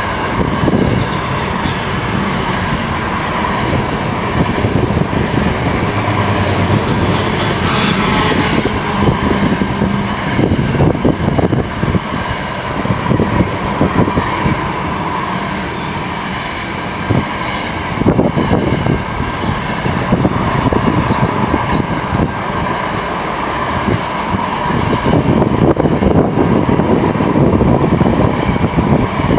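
Double-stacked container wagons of a long freight train rolling past close by, wheels clattering and rumbling without a break.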